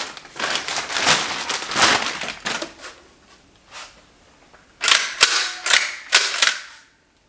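Beretta 1301 Tactical 12-gauge shotgun being handled, then its bolt cycled by hand: rustling at first, then a run of about four sharp clacks about five seconds in as the bolt is pulled back and let slam forward.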